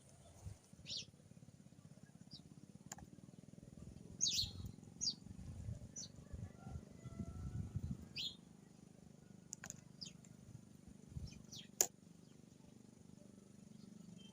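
Birds calling: scattered short, high chirps throughout, the sharpest one near the end, over a low rumble that swells in the middle.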